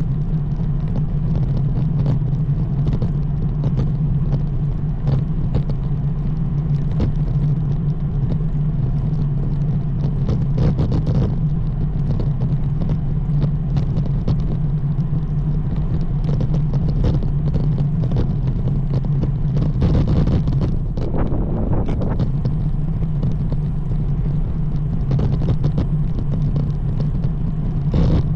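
Steady low rumble of a road bike on the move, with scattered small knocks and clicks over it.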